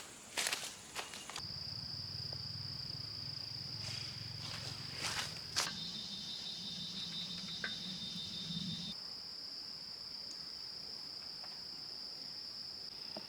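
Insect song: a steady high-pitched buzz that starts about a second and a half in and holds on, with a few sharp clicks at the start and around the middle and a low hum underneath until about nine seconds in.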